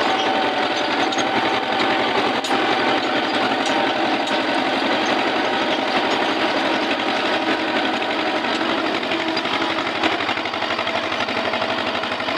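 Eicher tractor's diesel engine running steadily with a fast, even knock.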